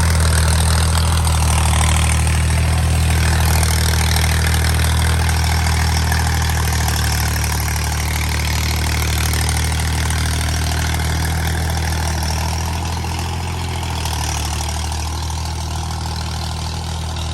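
Al-Ghazi 65 hp diesel tractor engine running steadily while working a rotavator, with a steady hiss over the deep engine drone; it grows gradually quieter in the second half.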